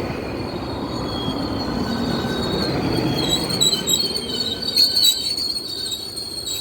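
GO Transit commuter train running on the rails, a steady low rumble with the steel wheels squealing in thin high tones that grow stronger and waver from about three seconds in.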